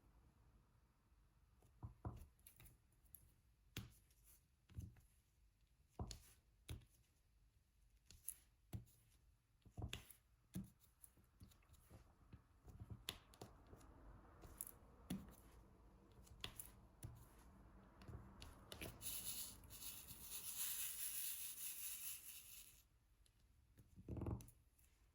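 Diamond painting: soft, irregular taps and clicks of a drill pen picking up resin drills and pressing them onto the sticky canvas. A high rustling hiss lasts a few seconds near the end.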